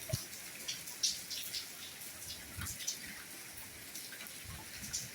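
Soft rain falling: a steady hiss with scattered individual drops ticking and splashing, and now and then a soft low plop of a heavier drip.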